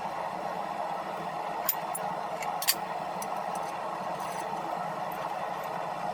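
A forge running with a steady rushing hiss while steel heats in it. Two sharp metallic clicks cut through it, one under two seconds in and a louder one a second later, followed by a few faint ticks.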